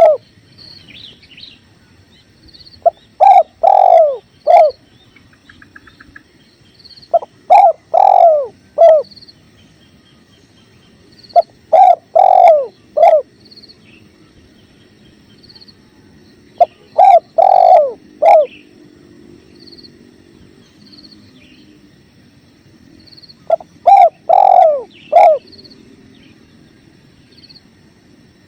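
Spotted dove cooing its song, a phrase of three or four falling coos repeated five times. Under it run faint high chirps of small birds and the steady wash of a flowing stream.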